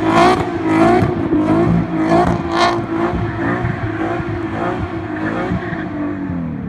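Nissan 370Z's 3.7-litre V6 through an ISR single-exit exhaust with test pipes and Y-pipe, revving up and down repeatedly under throttle. Two brief harsher flares come about a quarter second and two and a half seconds in.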